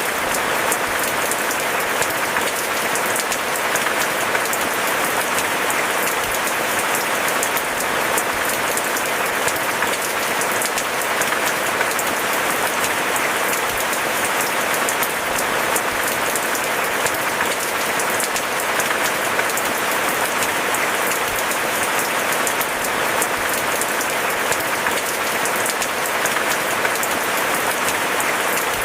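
Steady heavy rain: a dense, even spatter of drops that holds at one level throughout.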